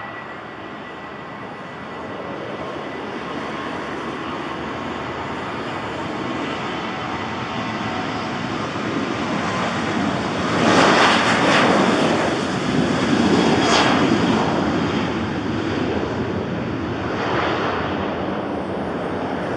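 Boeing 737 jet engines at takeoff power, a broad roar that grows steadily louder and peaks a little past halfway through as the plane passes, then eases slightly.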